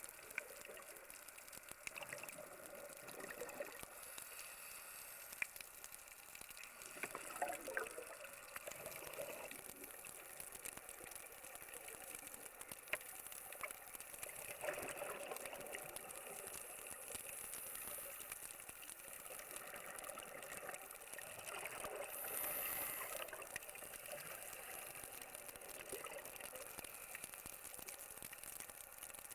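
Faint underwater sound of a scuba diver's exhaled bubbles, rushing in a swell about every seven seconds over a steady hiss with scattered sharp clicks.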